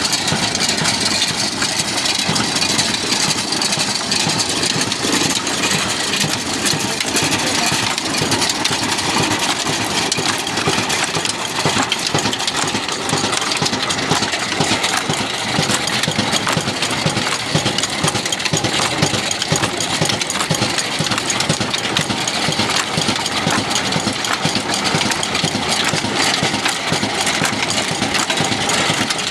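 Old stationary engine of a flour-mill (chakki) setup running steadily at constant speed, with a fast, even knocking beat.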